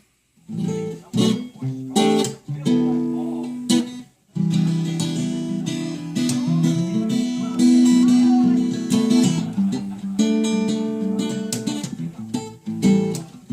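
Washburn guitar played in a run of plucked notes and strummed chords, freshly set up with its truss rod recalibrated. Short breaks come just after the start and about four seconds in, then longer ringing chords follow.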